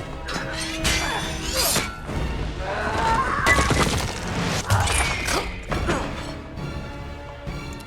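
Film soundtrack: a dramatic score mixed with repeated glass-shattering and crashing effects.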